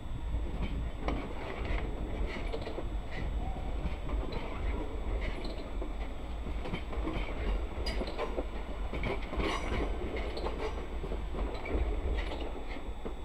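Skåne Pågatåg electric multiple-unit passenger train running past and away, with a steady low rumble and repeated clicking clatter from its wheels over the rail joints and points.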